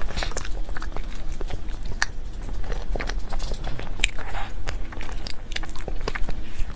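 Close-miked eating sounds of someone biting and chewing cake or dessert: many quick, irregular wet clicks and smacks.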